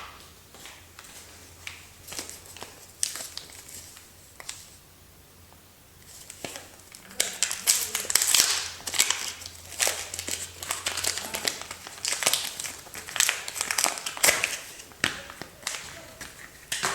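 Soap packaging being unwrapped by hand: crinkling and tearing, sparse and light at first, then dense and louder for most of the second half.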